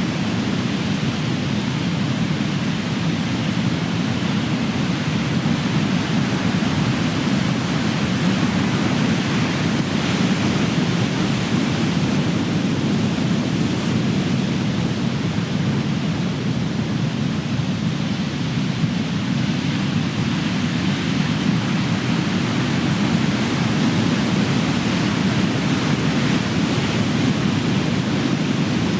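Big ocean waves crashing and surf washing onto the shore in a continuous roar, swelling and easing gently with the sets.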